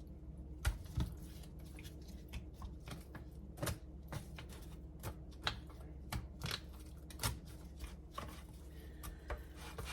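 Aluminium foil being pulled, torn and crinkled over a pan: a string of irregular sharp crackles and clicks, over a steady low hum.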